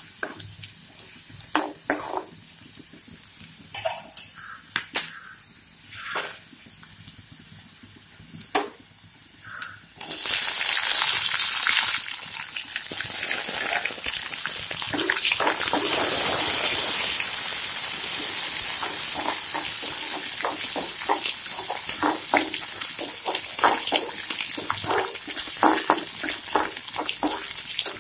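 A spatula stirring garlic and curry leaves in hot oil in an aluminium kadai, with scattered scrapes and taps against the pan. About ten seconds in, sliced onion goes into the oil with a sudden loud sizzle that settles into steady frying, the spatula stirring through it.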